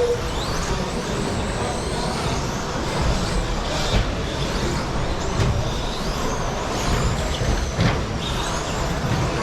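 A pack of 1/10-scale electric short course RC trucks with 13.5-turn brushless motors racing on a carpet track. High motor whines rise and fall over a steady haze of running noise, with a few sharp knocks.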